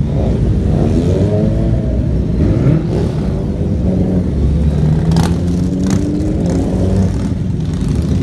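A motorcycle engine accelerating. Its pitch rises and falls several times in the first few seconds, then holds roughly steady.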